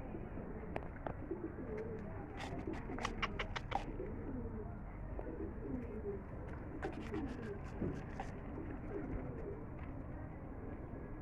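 Domestic pigeons cooing. Their coos are cut by two short runs of sharp taps or clicks, one about two seconds in and one about seven seconds in.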